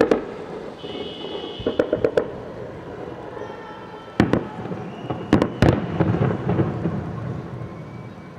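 Fireworks shells bursting: a series of sharp bangs, some in quick clusters of two or three, with rumbling echoes between them that die away near the end.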